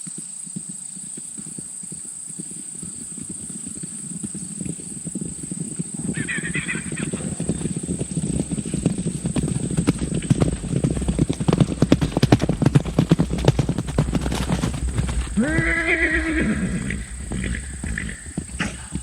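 Horses' hooves beating on the ground, building up from about six seconds in to a dense patter with a low rumble. A short high call comes at about six seconds, and a horse neighs around sixteen seconds.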